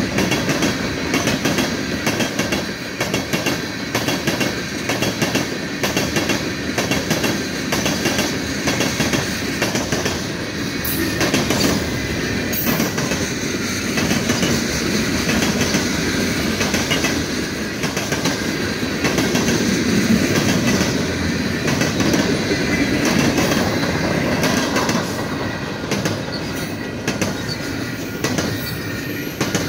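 Freight train of covered hopper and double-stack container cars rolling past: steady rumble of steel wheels on rail, with continual rhythmic clacking and a thin steady wheel squeal.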